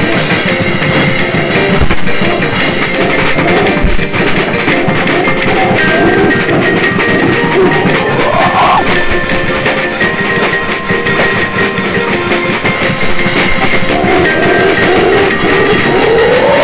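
Noisy home-recorded goregrind: distorted guitar, bass and two clashing drum tracks, one of them deliberately nonrhythmic, playing a folk melody as a dense wall of sound. A melody line slides upward about halfway through and again near the end.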